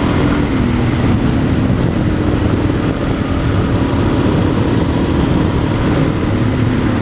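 Dual-sport motorcycle engine running steadily under way, a low rumble with an even drone.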